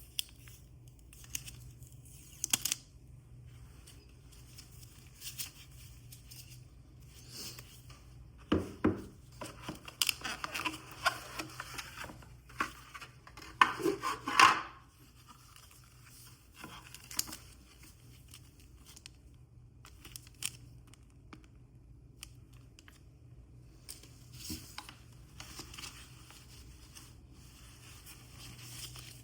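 Product packaging being opened and handled by hand: scattered clicks and scrapes, with a louder stretch of tearing and rustling between about 9 and 15 seconds in.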